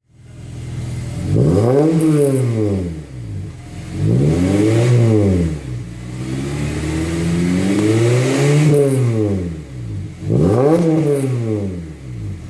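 Honda Civic Type R FD2's K20A four-cylinder engine, breathing through an aftermarket exhaust, revved up and let fall back four times, each rev rising smoothly in pitch and then dropping away, with another rev starting at the end.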